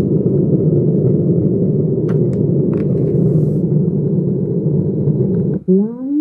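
A speaker wired to a home theatre amplifier board gives out a loud, steady low rumbling noise while the amplifier IC's input is touched by hand to test the channel. The noise cuts off suddenly near the end, and short warbling tones that rise and fall follow it.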